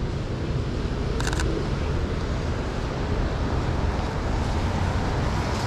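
Steady city street traffic noise, with a quick run of Sony a6400 camera shutter clicks about a second in.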